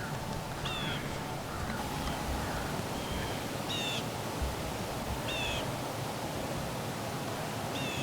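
A bird calling repeatedly: short, high notes that slide downward, about one every one to two seconds, over steady outdoor background noise.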